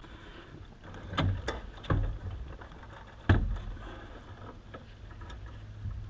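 A few sharp knocks and clunks of things being handled and moved, three close together about a second in and the loudest one about three seconds in, followed by lighter knocks.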